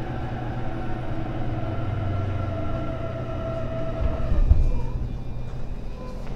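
JR Joban Line electric train running through a station, heard from inside the car: steady rolling noise with a faint motor whine. About four seconds in there is a low thump, the loudest sound, and the whine stops just after it.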